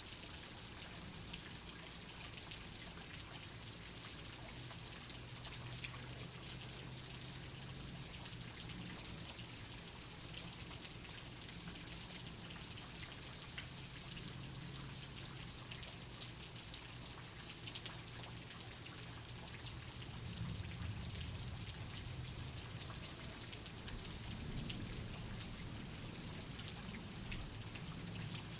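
Steady rain, a dense patter of drops, with a low rumble of distant thunder that grows stronger about twenty seconds in.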